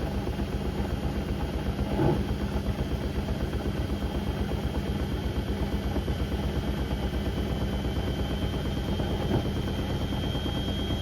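Beko WM74135 washing machine spinning, a steady hum with a fast, even pulse from the turning drum and a faint high motor whine that climbs slightly near the end. A brief knock comes about two seconds in and again near the end.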